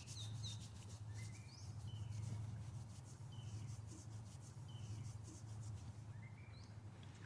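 Birds calling: short, downward-slurred chirps repeated every second or so, over a steady low hum.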